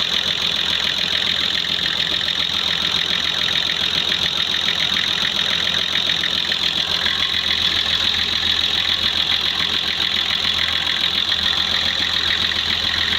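Nissan engine idling steadily with a fast, even ticking, running on a newly fitted injector that the mechanic says has stopped its smoking.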